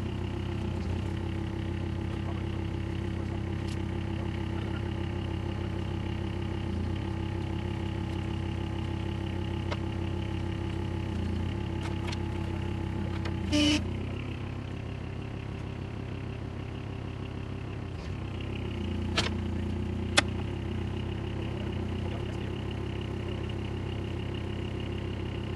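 A skid steer engine running steadily, its tone shifting about halfway through, with a single loud metallic clank just before the change and two sharp clicks later.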